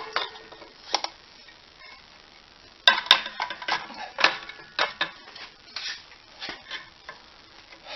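Metal parts and hand tools clinking and knocking: a string of irregular sharp metallic taps and clicks, busiest from about three seconds in until six and a half.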